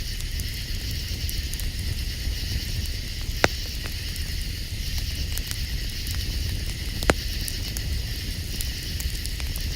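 Campfire crackling with faint ticks and two sharp pops, one about three and a half seconds in and one about seven seconds in, over a steady high hiss and low rumble.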